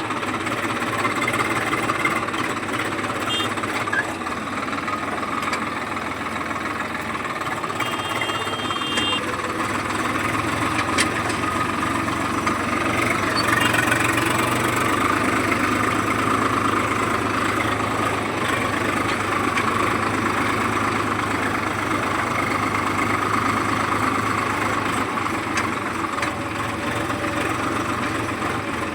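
Heavy vehicle's diesel engine running steadily at an even speed.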